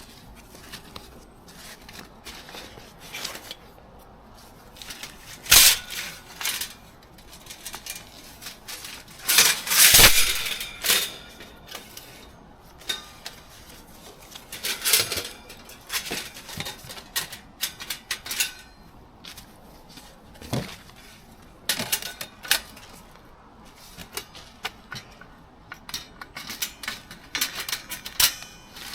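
Hard objects being handled: scattered clinks, knocks and rattles at an irregular pace, with louder knocks about five and a half and ten seconds in.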